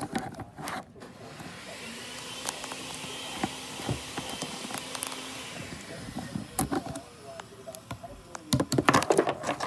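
A small electric motor runs steadily for about five seconds with a faint whine, then stops, followed by clicking and clattering handling noises near the end.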